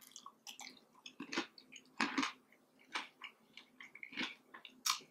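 Close-miked chewing of a mouthful of bacon: a run of irregular crunches and crackles.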